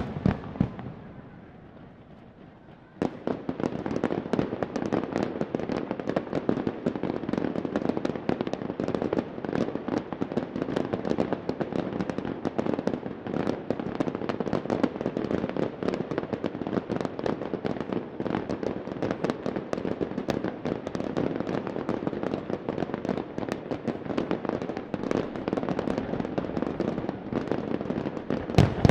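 Fireworks display: a few sharp bangs, a brief lull, then about three seconds in a dense barrage of rapid bangs and crackling sets in and keeps going, with a few louder bangs near the end.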